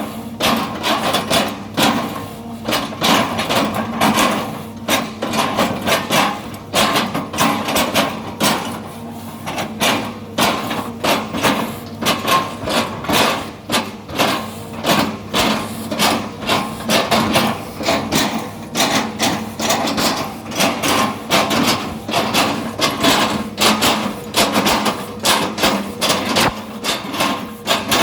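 Excavator working on felled oil palm trunks: a rapid, irregular stream of sharp knocks and cracks, several a second, over the steady hum of the machine running.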